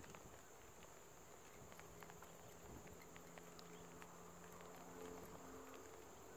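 Near silence: a faint, steady, high-pitched insect buzz, with a faint low hum that comes in about two seconds in and fades out after about five seconds.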